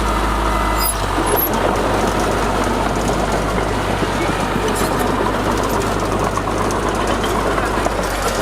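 Crawler bulldozer working, its diesel engine running steadily under load with a constant low hum and a busy rattle over it.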